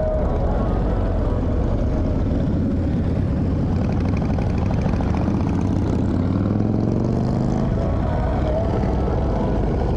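Motorcycle engines running on the move, with a steady low rumble and wind rush. Around the middle, an engine note climbs steadily in pitch for a few seconds as a bike accelerates.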